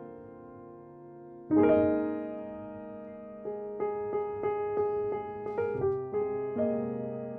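Background music: solo piano playing a slow piece, a held chord fading, then a fresh chord struck about a second and a half in and a run of repeated notes.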